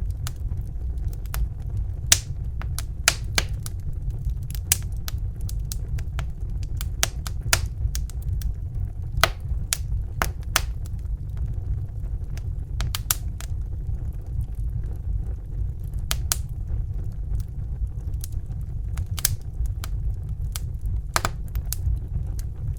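Crackling fire: irregular sharp pops and snaps, a few a second, over a steady low roar.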